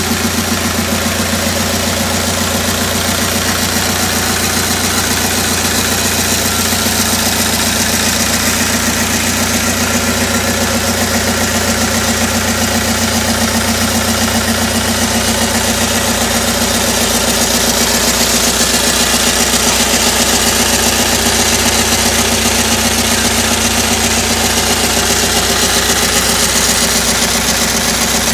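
Deutz F4L-1011F four-cylinder diesel engine running steadily at an even speed.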